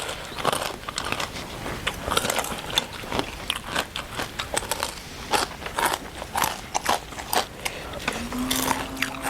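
Close-up chewing and biting of crispy pork rind, with irregular crisp crunches and clicks. A short low hummed tone comes in near the end.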